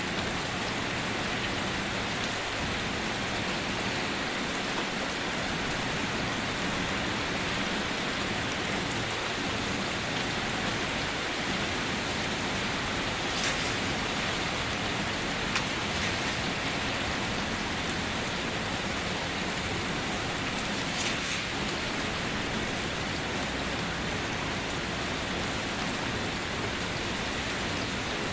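Steady rain falling on a surface, an even hiss with a few individual drops standing out briefly now and then.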